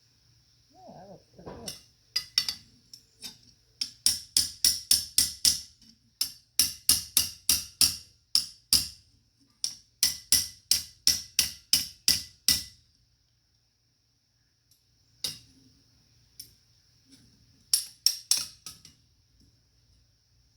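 Hammer blows on a metal strap being forged on an anvil: runs of quick, evenly spaced ringing strikes, about four a second, broken by pauses, with a few last scattered blows near the end.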